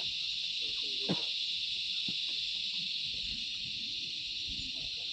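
Steady, high-pitched chorus of insects buzzing in the bush, unbroken throughout. A single short knock sounds about a second in.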